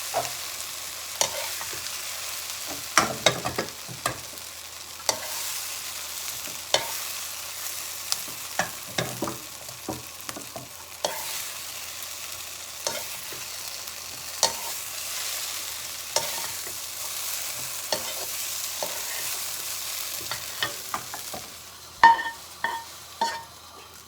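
Sliced onions and bell pepper sizzling in oil in a frying pan, with a spoon scraping and clicking against the pan as they are stirred. Near the end the sizzle dies down and the spoon knocks on the pan a few times more loudly.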